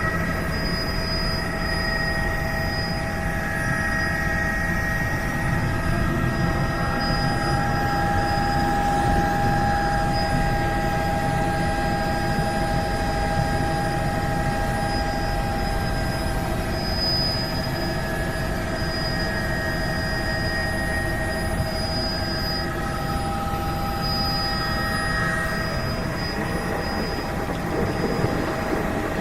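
Helicopter running steadily, a dense engine and rotor noise with a constant high whine of several tones over it.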